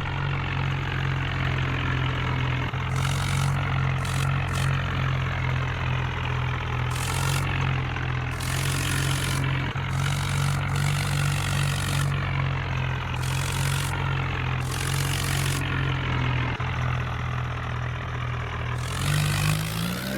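Diesel engine of a tractor or backhoe loader running steadily at an even speed while soil is being loaded, with short bursts of hiss from time to time. The engine revs up near the end.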